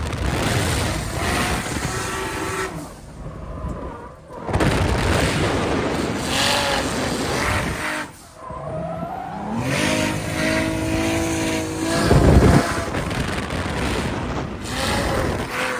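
Drift cars on track: engines revving up and down with tyres squealing, breaking off abruptly a couple of times.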